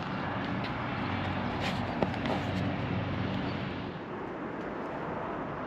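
Yamaha MT-07's 689 cc parallel-twin engine running steadily through its stock exhaust, a short sharp click about two seconds in; the engine note drops off about four seconds in.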